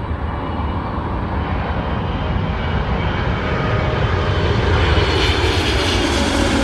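Saudia Boeing 777 jet airliner approaching, its engine noise growing steadily louder, with a whine that slowly falls in pitch near the end.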